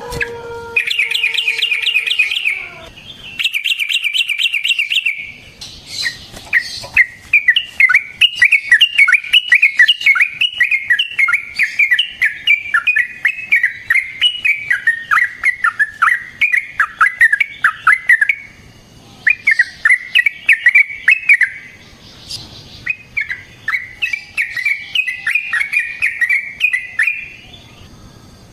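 Yellow-vented bulbul (trucukan) singing: two short, fast trills, then long runs of rapid, bubbly, warbling notes that rise and fall, broken by a couple of brief pauses. This is a recorded song of the kind played as a lure to make other bulbuls answer.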